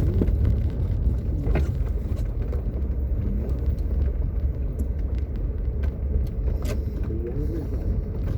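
Steady low engine and road rumble of a vehicle driving on an icy road, heard from inside the cabin, with a few faint clicks.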